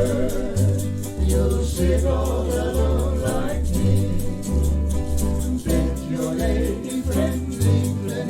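Band music with a singer: a wavering sung melody over a bass line that steps from note to note, with a steady light percussion rhythm ticking on top.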